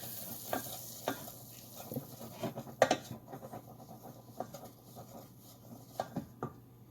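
A utensil stirring and scraping a butter-and-flour roux in a hot pan, with a faint sizzle. The scrapes and taps come irregularly, the loudest about three seconds in.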